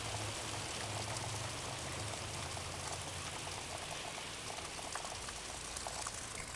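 Heavy rain pouring down, a dense hiss of drops with many small pattering hits, over a low steady hum.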